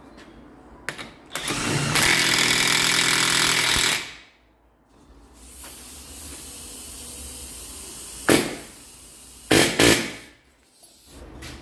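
Power tool running in bursts: one loud, steady run of about two and a half seconds starting about a second in, then two short bursts near the end.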